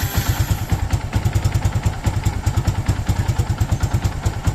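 Yamaha FZ's single-cylinder four-stroke engine idling steadily right after being started, with an even run of exhaust pulses; the engine has freshly fitted crankshaft bearings and is being run to check that the noise is gone.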